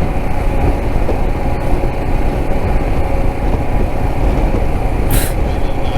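Single-cylinder dual-sport motorcycle running on the move, heard with heavy wind rumble on a helmet-mounted microphone. A brief hiss comes about five seconds in.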